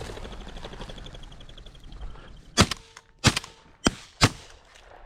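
Four 12- and 20-gauge shotgun shots fired in quick succession at a flushed pheasant, each a sharp crack. Before them, a fast, even rattle runs for about two seconds.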